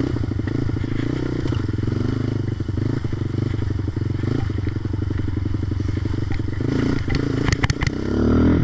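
Yamaha Raptor ATV engine running at steady low revs through its aftermarket exhaust, with a quick firing pulse. A few sharp clacks come about seven and a half seconds in, and then the revs begin to climb.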